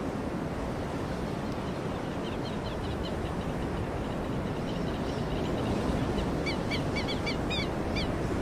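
Small bird calling in rapid series of short high chirps, about four or five a second, over a steady rushing outdoor noise; the chirps begin about two seconds in and grow clearer near the end.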